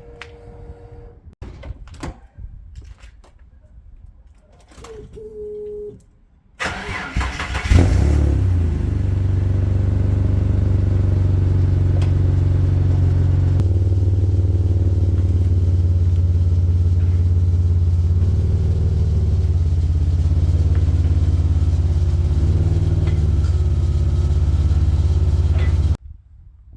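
A car engine, most likely the owner's Ford Falcon EF XR6 straight-six, cranks for about a second, catches with a brief rev and settles into a steady idle, which cuts off suddenly just before the end. Faint knocks and footsteps come before the start.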